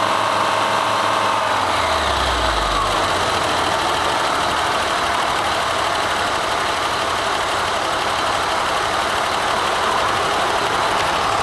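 A large engine running; about two seconds in its speed falls away and it settles to a steady idle.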